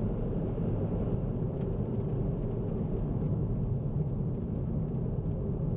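Car driving, with a steady low road rumble.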